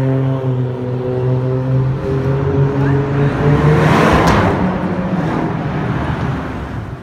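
Turbocharged Toyota Supra Mk4 straight-six running at a steady pitch as the car drives off, its note fading away after about three and a half seconds. One sharp pop comes near four seconds in, and street traffic noise carries on after the engine fades.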